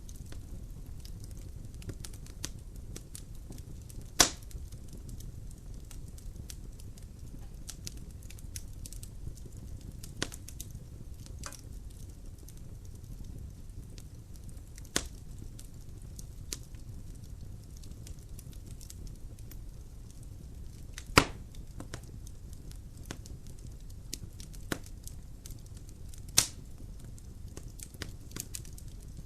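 Logs burning in a fireplace, crackling with scattered pops over a low, steady rumble of the fire. A few sharper, louder pops stand out, the loudest about four seconds in and about two-thirds of the way through.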